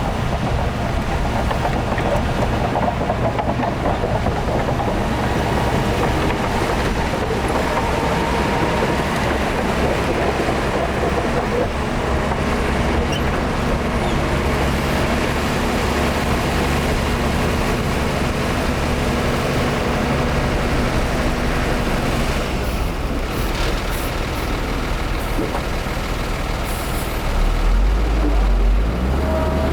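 Heavy diesel earthmoving machinery, a bulldozer and dump trucks, running steadily under load, with the engine note deepening and getting louder near the end.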